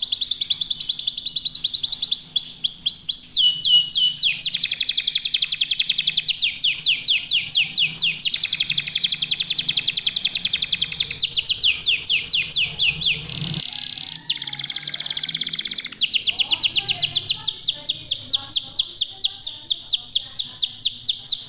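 Domestic canary singing long, fast trills of high repeated notes; about thirteen seconds in the song switches briefly to a rougher, buzzier phrase, then goes back to rapid trilling.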